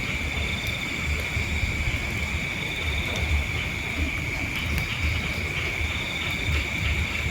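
Insects chirring outdoors: a steady high-pitched drone with a pulsing trill above it. Low gusts of wind buffet the microphone.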